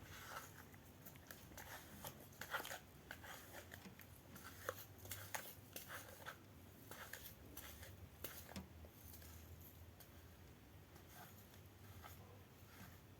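Faint handling sounds of small toiletry items: scattered light clicks, taps and rustles, thinning out after about nine seconds.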